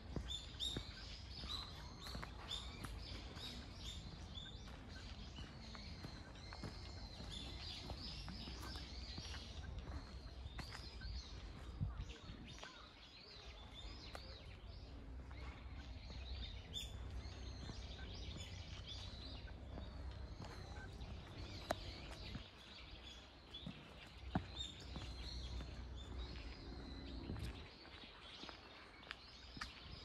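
Small birds chirping and calling again and again in the trees over a low, steady outdoor rumble, with a few faint clicks.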